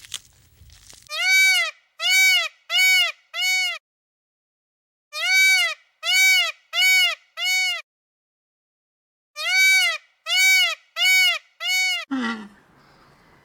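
Three identical runs of four short animal calls, each rising and then falling in pitch, with dead silence between the runs: one call repeated as a looped sound effect.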